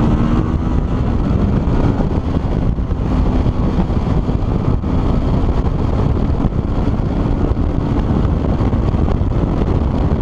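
Benelli Tre-K 1130 Amazonas motorcycle's inline three-cylinder engine running, heard as a loud, steady, noisy sound with a faint engine note rising slightly in the first second or two.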